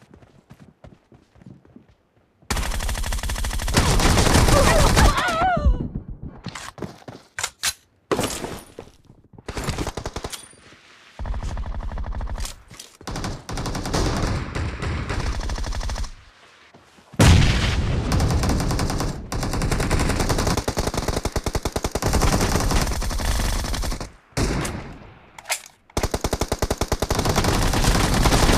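Shooter video game audio: automatic-rifle fire in long, rapid bursts, broken by short pauses, starting a couple of seconds in.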